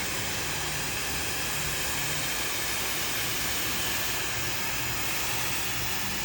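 Handheld hair dryer blowing steadily, a constant rushing air noise with a faint motor hum.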